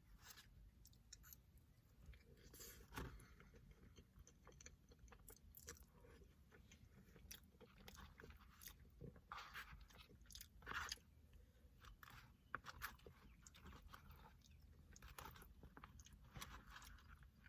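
Faint close-up chewing and crunching of fast food, with scattered wet mouth clicks and smacks.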